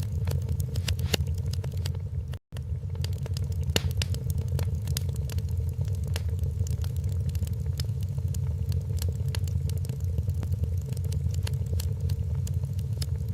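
Wood fire crackling in a fireplace: many sharp, irregular pops and snaps over a steady low rumble of the flames. The sound cuts out completely for a split second about two and a half seconds in.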